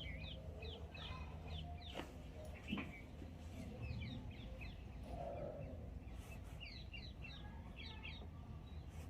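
Small birds chirping faintly in quick runs of short, falling chirps over a steady low hum, with a soft knock or two a couple of seconds in.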